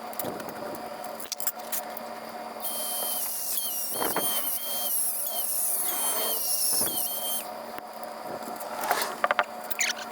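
A high-speed power tool, most likely a rotary cutting tool on metal, whining in on-and-off spells over a steady hum. Sharp metallic clinks about nine seconds in.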